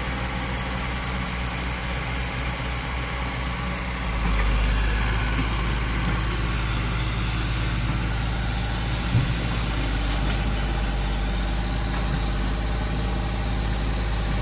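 Komatsu PC50UU-2 mini excavator's diesel engine running steadily. About four seconds in it picks up and runs louder and deeper, and a single short knock comes partway through.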